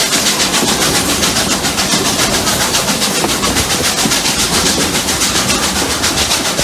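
Steam locomotives Rx207 and 621 working hard uphill together, their exhaust beats coming as a rapid, even chuffing of several beats a second over the steady noise of the running train.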